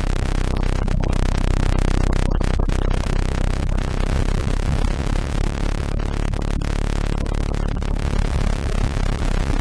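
Synthesized tones from a frequency generator: many steady pitches layered together over a hissing noise, heaviest in the deep bass, with no beat or melody.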